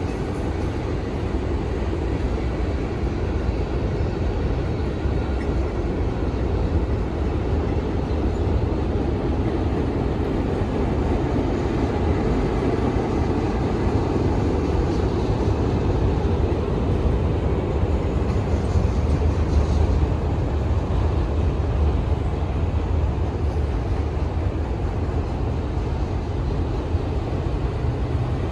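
Freight train rolling past: a steady rumble of wheels on rail that holds at one level, with no horn.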